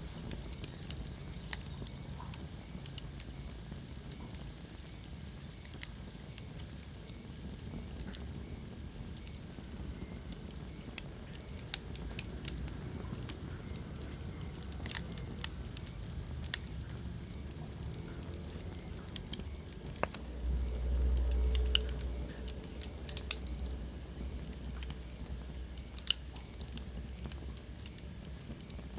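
Wood fire crackling, with irregular sharp pops and snaps over a steady low rumble. About twenty seconds in, the low rumble swells louder for a second or two.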